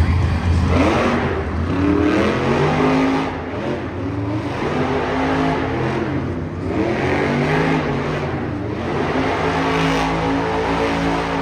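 Monster truck's supercharged V8 revving in bursts, its pitch climbing and falling several times, then holding steadier near the end.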